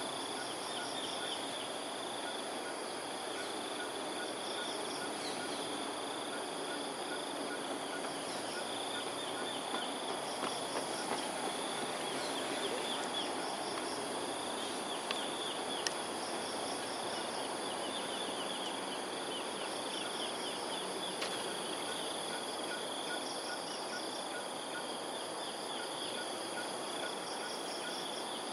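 Outdoor morning chorus of insects and birds: a steady high insect drone with trilling underneath, and short chirping bird phrases repeating every few seconds. A steady background rush runs beneath.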